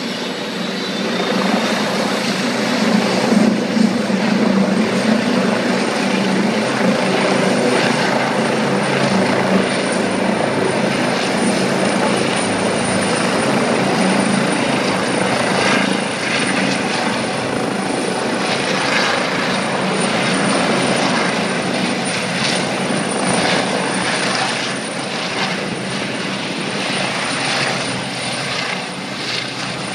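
Trauma helicopter running, its rotor and turbine making a loud, steady noise with a thin high-pitched whine that rises slightly over the first several seconds and then holds.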